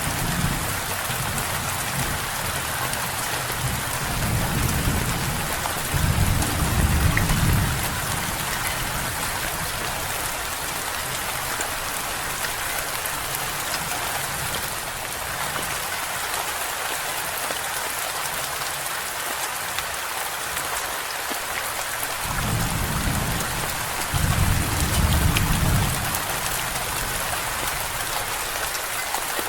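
Steady heavy rain, with two low rolls of thunder: one a few seconds in and another about three quarters of the way through, each swelling twice before fading.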